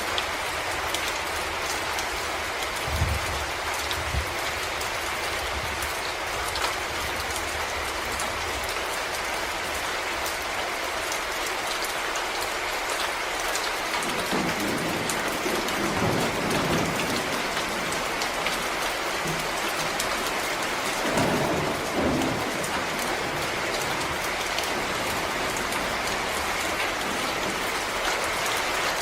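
Steady rain falling on forest leaves and ground, a dense even patter of drops. A few low rumbles swell up under it, briefly a few seconds in and again past the middle.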